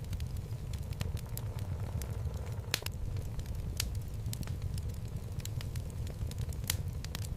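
Wood fire burning in a fireplace: a steady low rumble of flames with irregular crackles and pops from the burning logs, a few louder pops scattered through.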